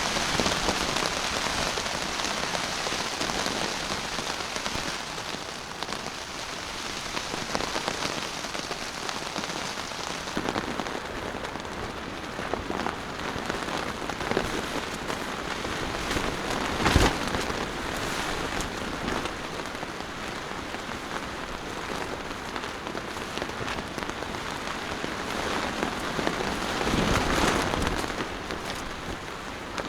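Heavy rain hitting a tarp, a steady dense spread of drop impacts with one louder thud about seventeen seconds in.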